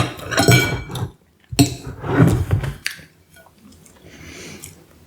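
A spoon scraping and clinking against a dish while scooping ice cream, in two strokes about a second apart, followed by softer handling sounds.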